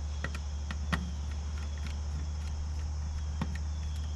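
A few small clicks and taps of hand work on the mini split's control-wire terminals, over a steady low hum.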